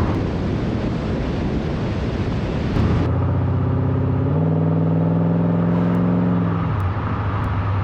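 Mercedes-Benz 560 SEC Koenig Specials' 5.6-litre V8 running. A rough, noisy rumble gives way after about three seconds to a steady engine note. About four seconds in the revs step up and are held higher, then they drop back to idle near the end.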